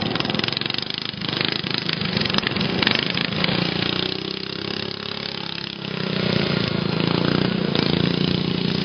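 Racing lawn mower engines running hard, their pitch dipping and then climbing again around the middle.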